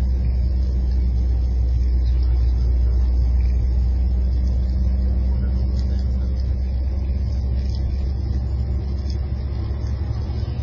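A car driving, with a steady low rumble of engine and road noise that eases slightly near the end.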